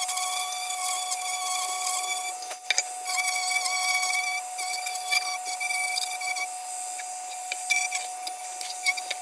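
Excess solder being cleaned off a soldered metal lantern part: a high-pitched scraping squeal in stretches of about two seconds, with a few sharp clicks, over a steady whine.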